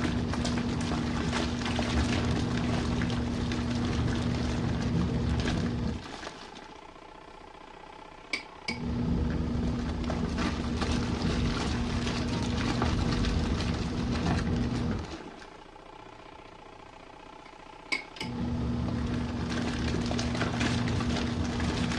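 Small RV washing machine in its main wash: the wash motor hums in runs of about six seconds, with pauses of two to three seconds between runs. A sharp click comes as each run starts, and water sloshes in the drum underneath.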